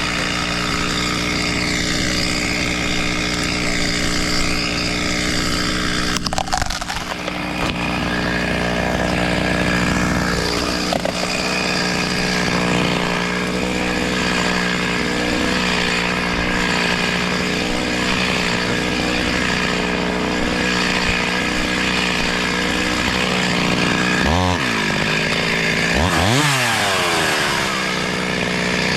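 Chainsaw running steadily, cutting wood. Near the end its engine pitch drops sharply and climbs back twice.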